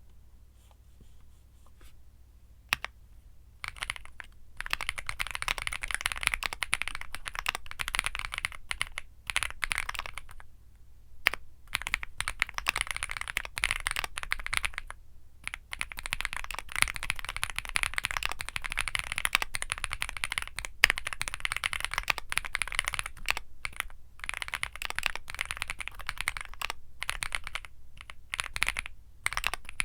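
Typing on a Womier SK75 mechanical keyboard with Womier Mint Blizzard switches: after a quiet start with a single click, fast continuous keystrokes begin about four seconds in and run on with a few short pauses.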